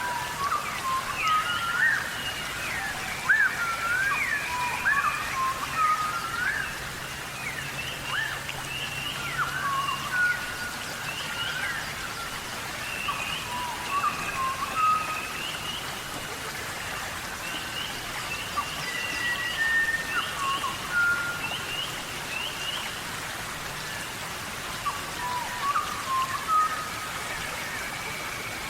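Several forest birds calling in a dawn chorus, many short whistled notes sweeping up and down, layered and overlapping, over a steady background hiss.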